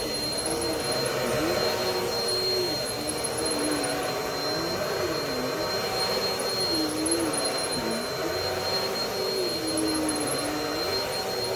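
Bissell PowerLifter Pet upright vacuum cleaner running, with a steady high whine over the motor. The motor's pitch dips and recovers again and again, every second or two.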